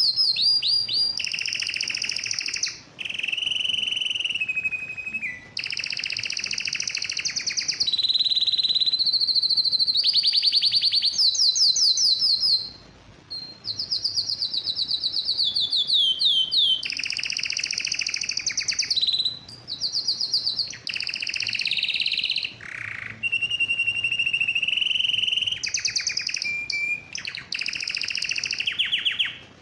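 Male domestic canary singing a vigorous breeding-condition song: fast trills and rolls, one phrase after another, each lasting one to three seconds, with only brief breaks.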